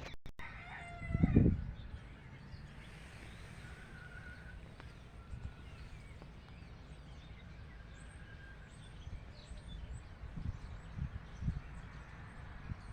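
Roosters crowing: one close call falling in pitch just after the start, then fainter crows around four and eight seconds in, with small birds chirping in the background. A few low thumps come near the start and after about ten seconds.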